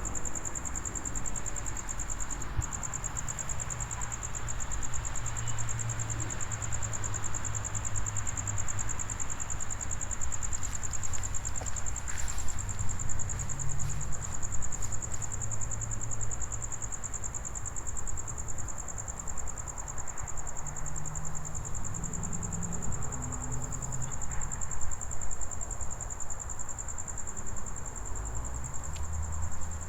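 Crickets trilling steadily in a high, unbroken chorus over a low, uneven rumble.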